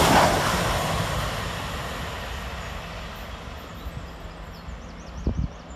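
Train passing at speed close by, its rumble fading steadily as it draws away. A short low thump comes near the end.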